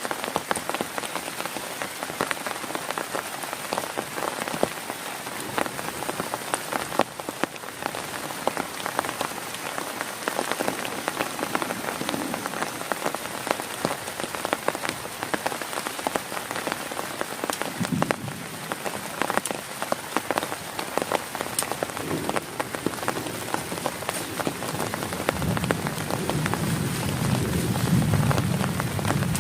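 Heavy rain pattering on a tent, a dense steady hiss of drops with countless small ticks. A low rumble joins in the last few seconds.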